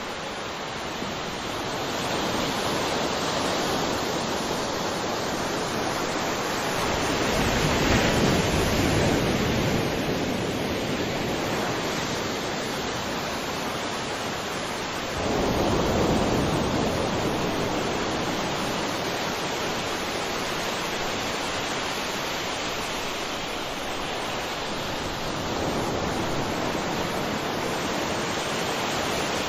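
Ocean waves breaking and washing on shore in a continuous rushing surf. It swells louder as waves break, about eight seconds in, again about sixteen seconds in with a sudden rise, and more gently near the end.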